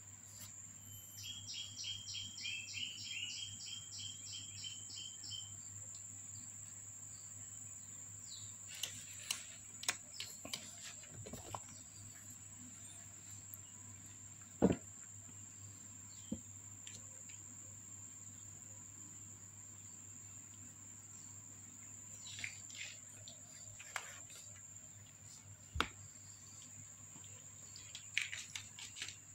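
A bird's quick run of chirps, about three or four a second, for several seconds near the start, over a steady high whine. Scattered knocks and scratching as kittens play in and around a plastic storage box, the loudest a sharp knock about halfway through.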